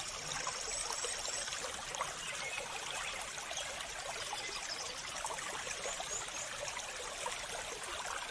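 Birds chirping in short high series over the steady trickle of running water.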